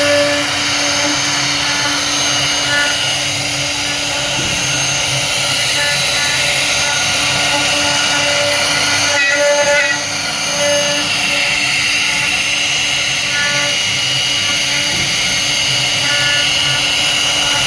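CNC router spindle running with a steady high whine while cutting into wood.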